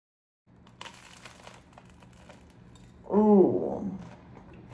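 Biting into and chewing crisp avocado toast on toasted lavash bread, a crackly crunching. A little past three seconds in, a short hummed voice sound through a full mouth, rising then falling in pitch, is the loudest moment.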